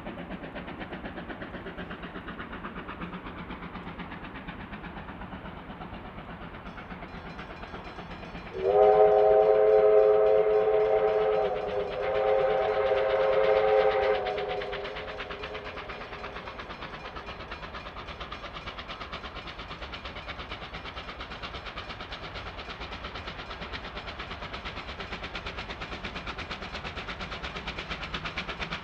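Steam locomotive R761 running, its whistle sounded about nine seconds in: a loud chord of several notes held for about five seconds with a brief break in the middle, then the steady running of the train resumes.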